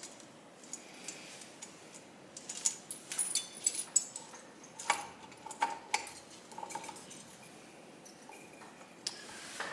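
Metal clinks and taps of tools and engine parts being handled while taking apart a 1971 Honda SL125's cylinder head. A quick run of sharp clicks comes in the middle, a few of them ringing briefly, then scattered lighter taps.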